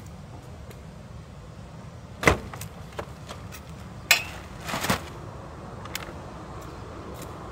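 A few sharp knocks and lighter clicks, with a short rustle between them, from things being handled inside a light truck's cab, over a steady low rumble.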